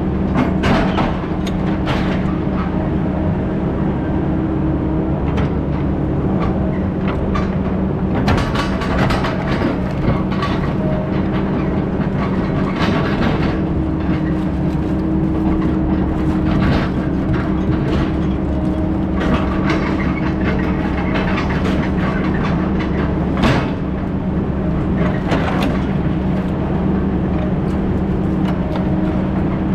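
Heavy diesel logging equipment running steadily, with spells of metal rattling and clanking and one sharp knock about two-thirds of the way through.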